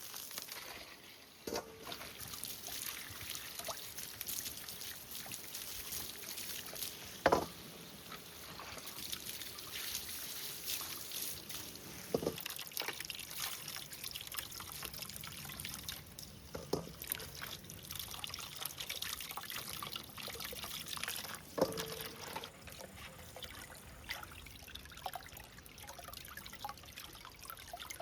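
Water trickling and splashing steadily, with a few sharp knocks, the loudest about seven seconds in.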